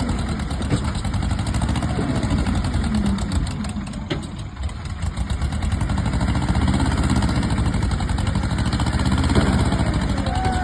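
Heavy diesel engines of a tractor and a JCB backhoe loader running under load. The level dips briefly about four seconds in, then runs louder.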